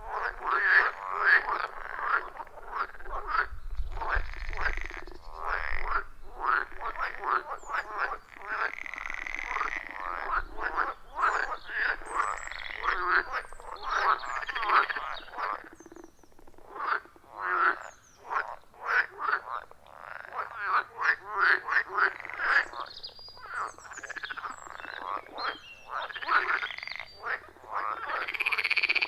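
A chorus of frogs croaking at a pond, many overlapping calls of short repeated pulses that never stop.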